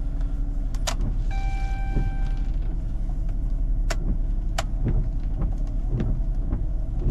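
Car engine idling just after a cold start while the windshield wiper motor runs and the blades sweep the glass in repeated strokes. A held electronic beep sounds about a second in, and a few sharp clicks come through.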